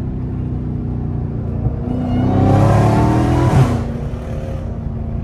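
Dodge Charger's Hemi V8 heard from inside the cabin, cruising steadily. About two seconds in it is floored, and the engine note climbs with a rising hiss above it. A second and a half later it falls away suddenly as the throttle is lifted, then settles back to a steady cruise.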